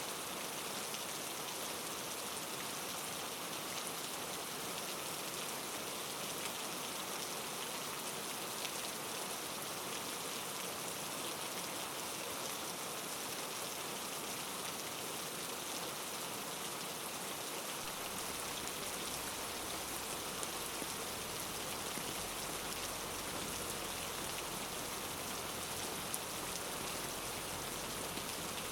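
Steady rainfall: a dense, even patter of drops on surfaces. A low rumble comes in underneath about two-thirds of the way through.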